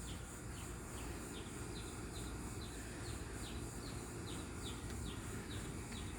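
Outdoor ambience: faint, short, high chirps repeating steadily about two or three times a second over a low rumble.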